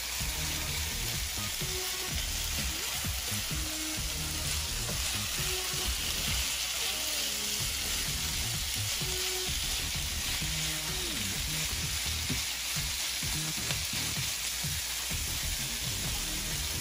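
Ground beef, onions and bell peppers sizzling steadily in a frying pan, stirred with a utensil at times.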